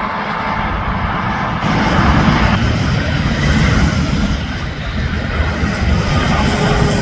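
Interstate highway traffic: semi-trucks and cars passing close by, a steady rush of tyre and engine noise.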